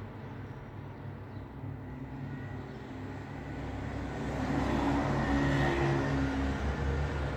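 Road traffic: a steady rumble of vehicles, with one vehicle's engine and tyres growing louder over the second half as it comes close.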